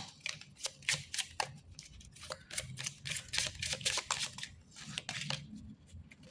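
Oracle cards being shuffled by hand: a quick string of papery flicks and slaps that thins out near the end.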